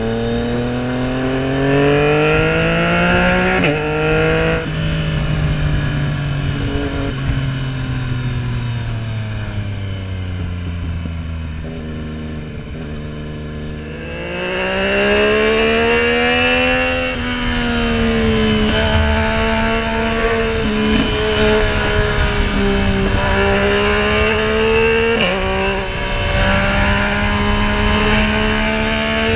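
Yamaha MT-09's three-cylinder engine under way, revving up and dropping in pitch at a gear change about four seconds in, then easing off and slowing. About halfway through it picks up again with wind rushing over the microphone, and the pitch keeps rising and falling with the throttle.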